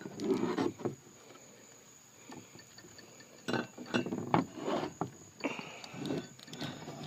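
Irregular clinks and knocks of metal as the cylinder heads are handled and moved about on a bench, in three clusters.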